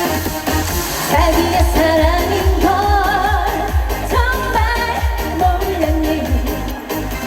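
Female trot singer singing live over an EDM-style backing track with a steady kick-drum beat.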